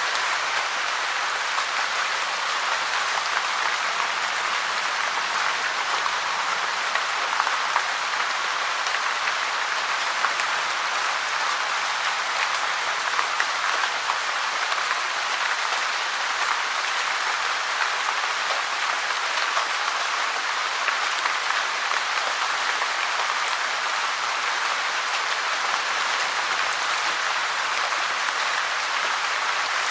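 Steady rain falling, a dense, even patter of drops that keeps up without let-up.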